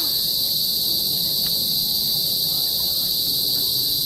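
Loud, steady, shrill drone of insects, holding one unbroken high pitch.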